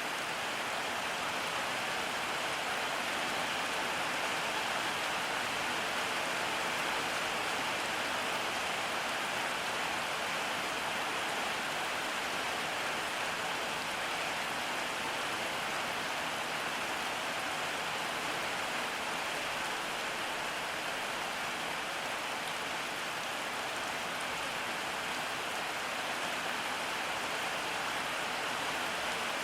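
Steady rain falling on surfaces, an even hiss of many drops with no change in intensity.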